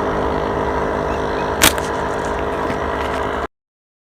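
A steady engine drone, with one sharp click about a second and a half in. The sound cuts off abruptly to silence near the end.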